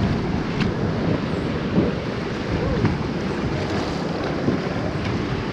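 Whitewater river rushing steadily around the raft, with wind on the microphone.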